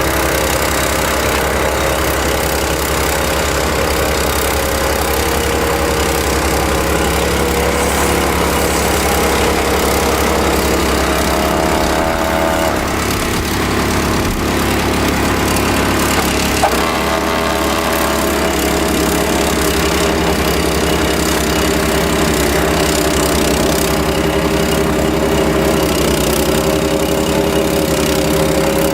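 Engine running steadily. Partway through its pitch drops for a few seconds, then a short click and it picks back up.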